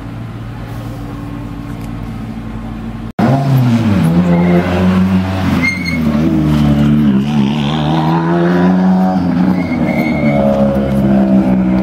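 A steady engine hum, then about three seconds in a loud World Rally Car engine, a 1.6-litre turbocharged four-cylinder, revving hard as it accelerates. Its pitch climbs, falls back in steps with the gear changes, and rises again near the end.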